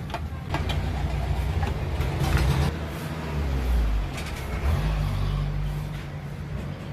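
Exhaust fan's electric motor running with a steady low hum. There are a few light clicks near the start and a brief rustle of handling about two seconds in.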